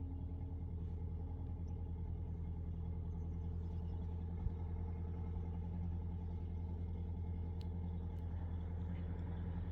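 A motor running steadily with a low, even hum, and a single short click about four and a half seconds in.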